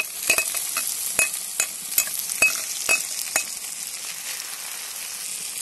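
Noodles, egg and meat sizzling steadily as they fry in a kazan. About eight sharp clicks of a utensil sound in the first three and a half seconds, then only the sizzle.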